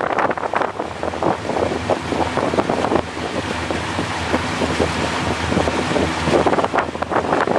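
Wind buffeting the microphone over the steady low drone of a motorboat underway.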